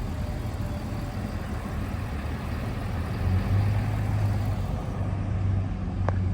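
Pickup truck driving on the road, heard from inside the cab: a steady low engine drone over road noise, growing louder about three and a half seconds in.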